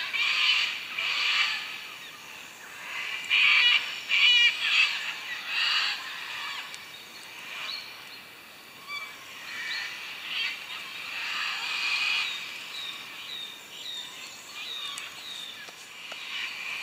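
Birds calling in the bush: a run of loud, scratchy calls over the first six seconds or so, then quieter calls and a quick string of short, high chirps.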